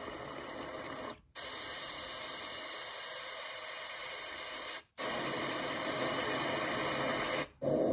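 Someyou portable white noise machine playing steady white noise from its small speaker. The sound cuts out briefly three times as the machine steps through its white-noise settings, and each new setting has a slightly different colour, the last one deeper and fuller.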